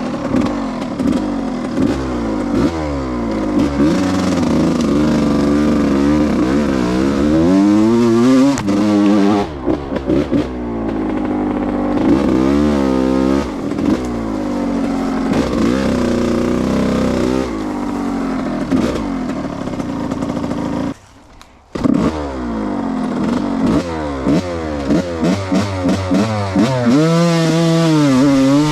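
Yamaha YZ125 single-cylinder two-stroke engine revving up and down over and over as the bike is ridden off-road, with chassis clatter. About two-thirds of the way through the sound drops away for about a second, then picks up again.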